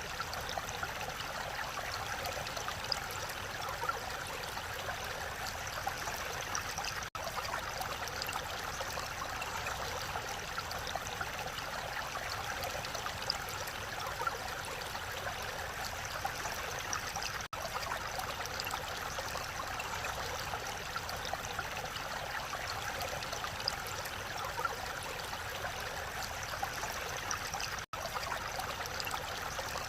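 Mountain valley stream rushing steadily over rocks, an even wash of water noise, with three very brief dropouts.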